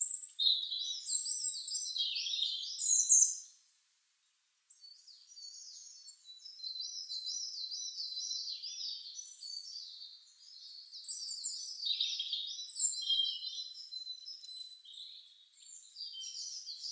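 Small songbirds singing, several at once: fast, high, repeated chirps and trills. The sound cuts out completely for about a second, a few seconds in, then the singing resumes.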